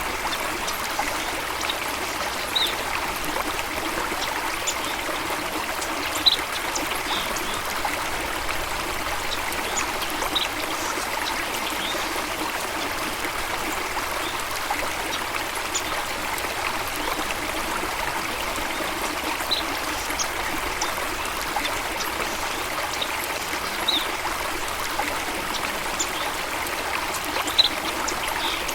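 Stream water running steadily in a continuous rushing trickle, with a few short, high bird chirps now and then.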